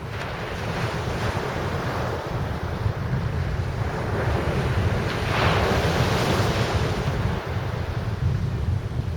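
Sea surf washing on the beach with wind buffeting the microphone in a steady low rumble; the surf swells louder about five seconds in.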